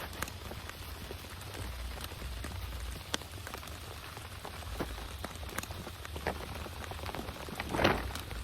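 Steady rain falling on a surface, with scattered individual drops tapping sharply and one louder knock near the end.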